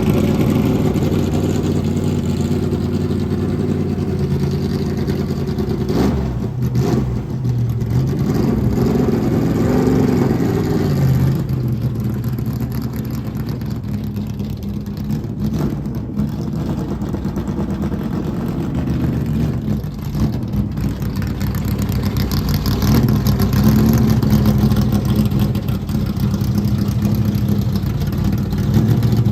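Truck engine running steadily under way, its pitch rising and falling briefly about ten seconds in, with a couple of sharp knocks about six seconds in.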